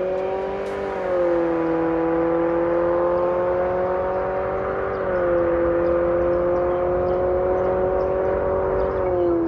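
Exhaust note of a Nissan Sentra B18's HR16DE four-cylinder through an MS-R valved cat-back system: a steady engine drone that slowly rises in pitch, dropping back a little about a second in and again about five seconds in.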